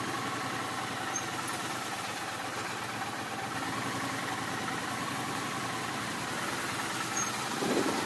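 Vehicle engine idling steadily, a constant hum with a short low sound near the end.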